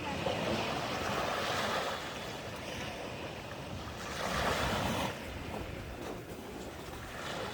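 Sea waves washing onto the shore, two swells of surf rising and falling.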